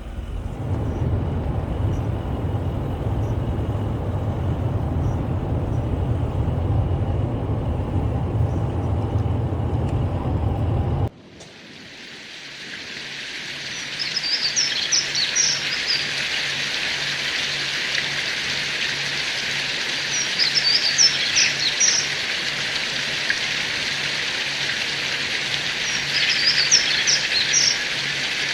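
Outdoor ambience: a low rumble of wind for about eleven seconds, then an abrupt cut to a steady hiss with songbirds chirping in short clusters three times.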